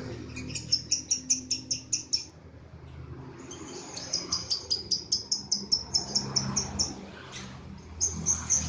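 Lovebird in its long 'ngekek' song: runs of rapid, high, repeated chirps at about five a second. The runs break off briefly after about two seconds, resume for several seconds, pause again, and start up once more near the end.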